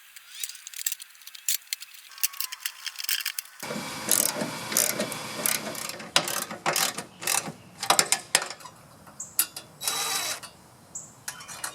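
Quick, irregular runs of sharp clicks, taps and rattles from hands working with tools and parts on the mower.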